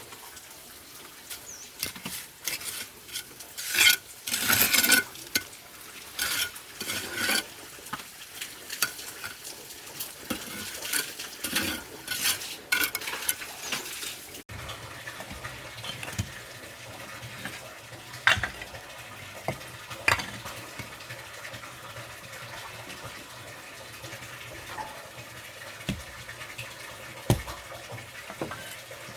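Irregular scraping and tapping of a trowel working mortar and brick, with sharper clicks mixed in.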